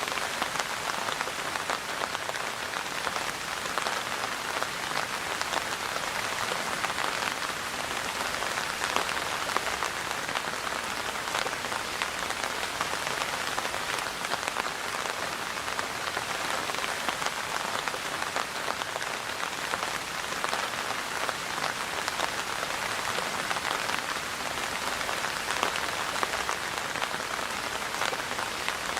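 Steady rain falling on a surface, an even patter of many drops with no let-up.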